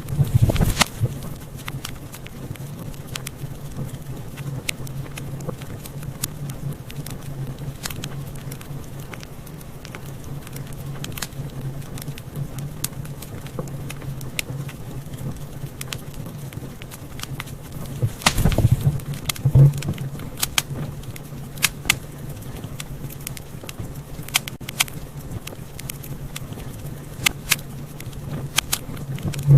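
Wood fire in a fireplace crackling, with irregular sharp pops and snaps over a steady low hum. Louder bursts of popping come about half a second in and again around 18 to 20 seconds.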